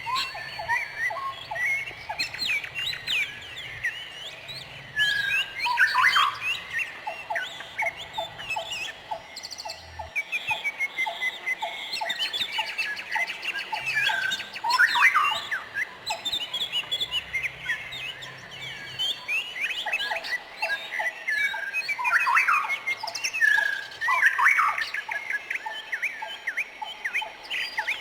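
Several songbirds chirping and singing at once, with many quick chirps and whistled notes and, now and then, a rapid run of short repeated notes.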